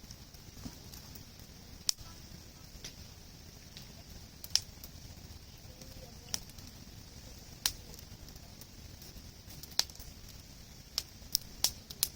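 Wood campfire crackling: sharp, irregular pops every second or two, several close together near the end, over a steady soft hiss.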